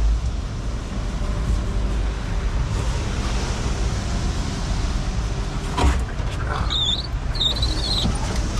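Concrete mixer truck's diesel engine running with a steady low rumble, with a couple of brief high wavering squeaks about seven seconds in.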